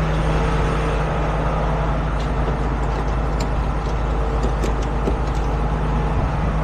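A heavy tow truck's engine runs with a steady drone, joined by a few faint light clicks in the middle.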